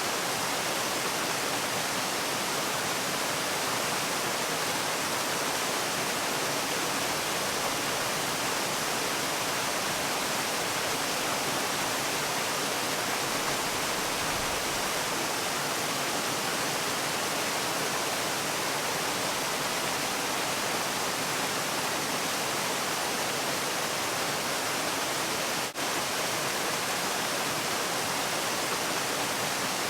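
Falling water of a waterfall, a steady, even rush with no changes, broken once by a split-second dropout a few seconds before the end.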